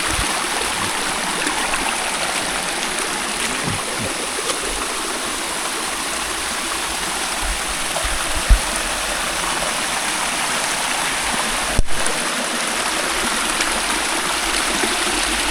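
Forest stream rushing over rocks: a steady, even rush of water, with one low thump about eight seconds in.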